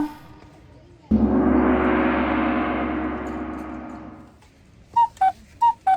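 A gong struck once, its rich ringing tone fading away over about three seconds, followed near the end by four short high tones.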